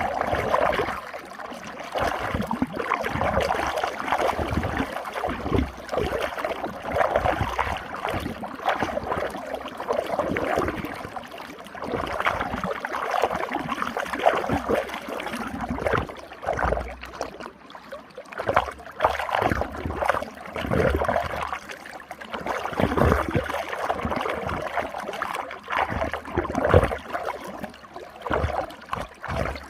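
Running water swirling in a whirlpool: a continuous gurgling rush that swells and ebbs in uneven surges, with occasional low thuds.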